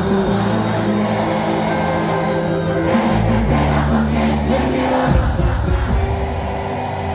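Live cuarteto band playing, with held bass and keyboard chords that change every few seconds under a steady cymbal beat.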